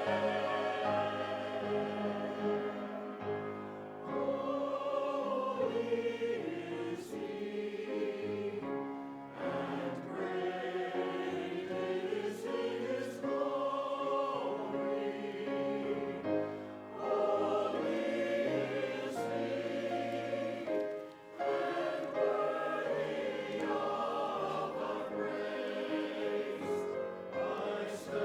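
Choir singing a sacred piece in phrases a few seconds long, with short breaths between them.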